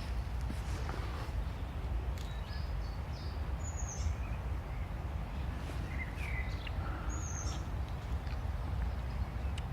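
Forest birds chirping in a few short, scattered calls, over a steady low rumble.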